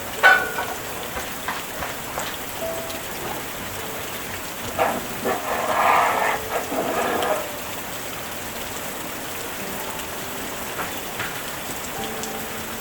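Steady rain falling, with a sharp knock just after the start, a few lighter clicks, and a louder noisy stretch about five to seven seconds in.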